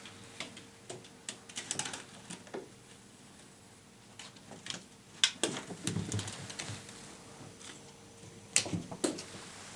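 Irregular light taps, clicks and scuffles of cats playing with a toy on a hard floor, in small clusters, over a faint steady hum.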